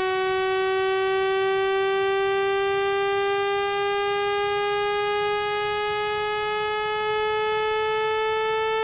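Electronically generated buzzy tone, rich in overtones, gliding slowly and steadily upward in pitch. It is a speaker-cleaning tone, meant to vibrate water and dust out of a phone speaker's grille.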